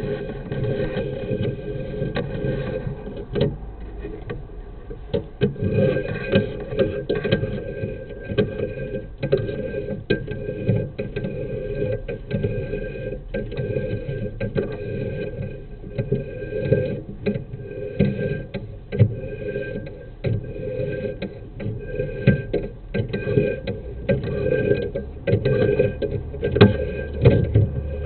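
Sewer inspection camera head and push cable knocking and scraping in a sewer pipe, irregular clicks and knocks over a steady hum.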